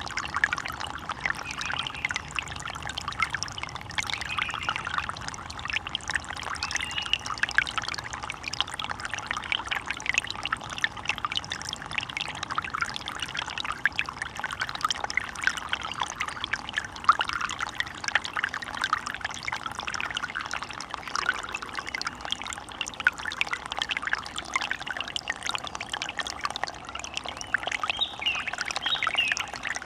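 A small forest stream running steadily over rocks: a continuous babble of small splashes and trickles.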